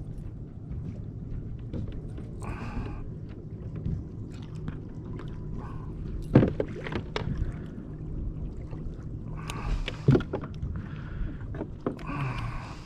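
Sounds of a kayak on the water: short splashy sloshes against the hull, with two sharp knocks, about six and ten seconds in, which stand out as the loudest sounds.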